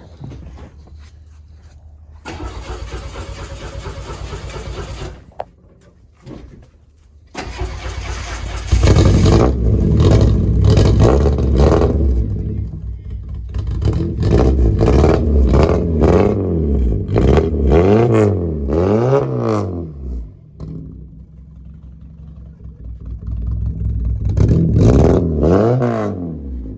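VW Golf engine with a newly fitted custom full stainless-steel exhaust: a few seconds of starter cranking, then the engine catches about seven seconds in and is blipped repeatedly, each rev rising and falling in pitch. It drops to idle about twenty seconds in and is revved hard once more near the end.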